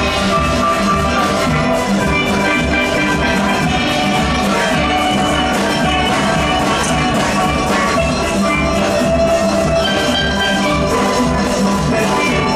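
Steel orchestra of many steelpans playing a soca arrangement, backed by a drum kit and rhythm section with a steady beat.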